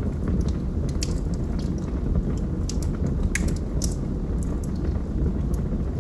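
Wood fire burning in a fireplace: a steady low rumble of the flames with scattered sharp crackles and pops from the burning logs, the loudest pops a little past the middle.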